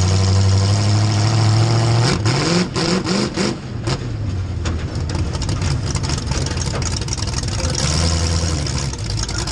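Race vehicle's engine running at a steady pitch, then revving up sharply several times in quick succession about two seconds in, with clicks between the revs, before settling into a steadier, rougher run.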